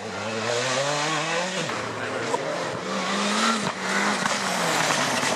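Rally car engine revving hard under acceleration, its pitch climbing and then dropping sharply at two gear changes.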